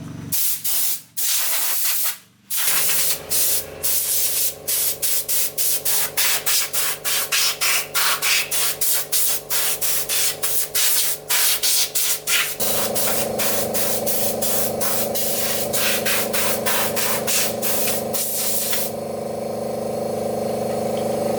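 Rapid short bursts of hissing spray, about two or three a second, stopping about nineteen seconds in. Under them a steady machine hum, which gets louder about two-thirds of the way through.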